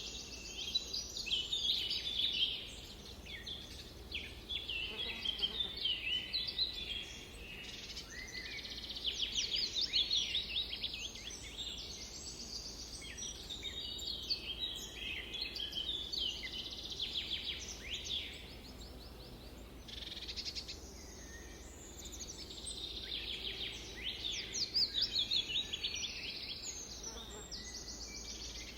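Several forest songbirds singing and chirping at once, a dense overlapping chorus of quick high trills and chirps, over a faint low background hum.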